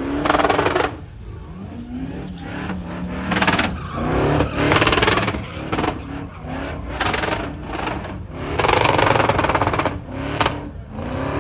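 Vehicle engines revving repeatedly, the pitch climbing and dropping several times, with loud bursts of noise in between.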